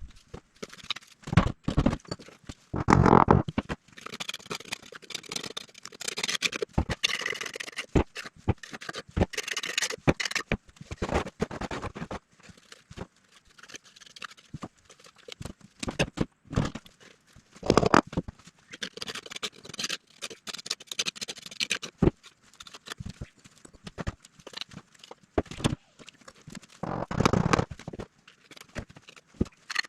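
Irregular knocks, taps and scraping of hand work on materials, with a few louder thuds scattered through.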